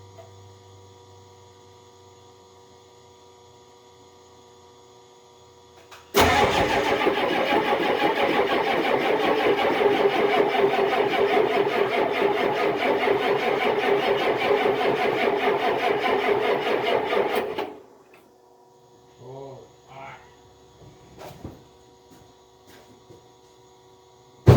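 Vehicle engine cranking on its starter motor in a fast, even rhythm for about eleven seconds without catching, then cutting off suddenly when the key is released. A faint steady electrical hum is there before the cranking.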